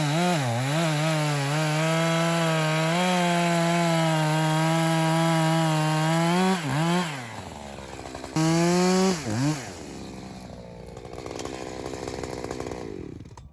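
Echo CS-620 two-stroke chainsaw at full throttle, cutting through ash firewood, its pitch dipping slightly under load. About six and a half seconds in it comes off the throttle, gives one short rev about two seconds later, then drops to a low idle that stops near the end.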